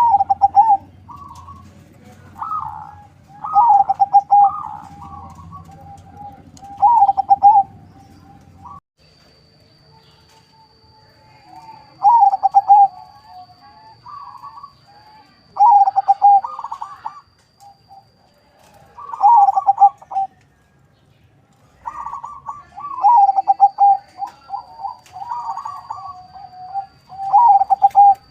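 Zebra dove (perkutut), a local-by-Bangkok crossbreed, singing its melodious cooing song in repeated phrases a few seconds apart, with a longer pause about a third of the way in. A faint steady high whine sits behind it for much of the time.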